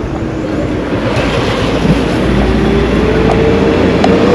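A motor vehicle's engine running close by and growing louder, with an engine note that slowly rises in pitch from about halfway in, over a heavy rumble of road noise.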